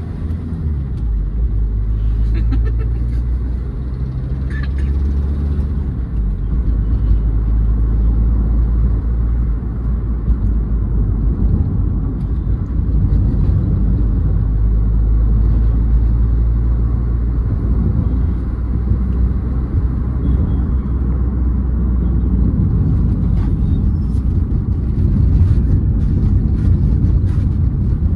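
Verna 1.6 turbo diesel engine and road noise heard from inside the car while driving: a steady low drone whose engine tones shift about a second in and again around six seconds in.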